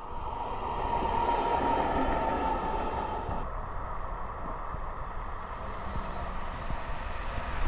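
Train running past with a steady rumble, and a high steady whine that sounds for the first few seconds and fades out about three and a half seconds in.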